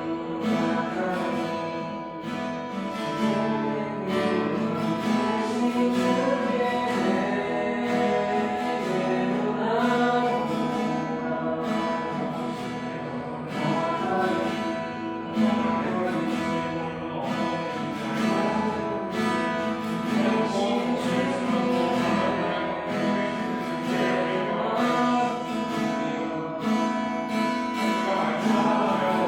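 Acoustic guitar strummed steadily under a voice singing a slow worship song.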